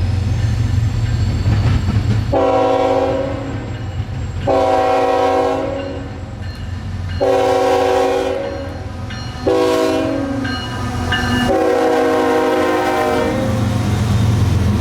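CSX freight locomotive's multi-note air horn sounding five blasts: three long, one short, then a final long one. The last four form the long-long-short-long grade-crossing signal. A steady low diesel engine rumble from the approaching freight train runs underneath.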